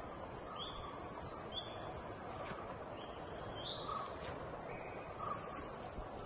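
Wild birds calling in forest: short, high, falling chirps come several times over a steady background hiss of forest ambience, with a few fainter, lower notes between them.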